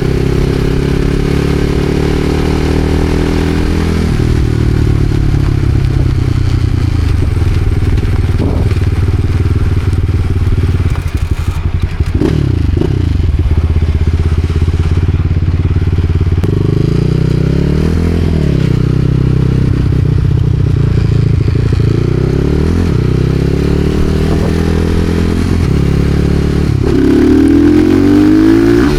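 Supermoto motorcycle engine running under way, its pitch rising and falling again and again as it accelerates and shifts gears. There is a brief drop about twelve seconds in, and it is loudest near the end.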